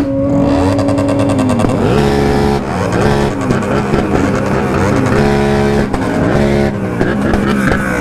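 Several remapped sport motorcycles revving together, overlapping engine notes held high for a second or two and then rising and falling.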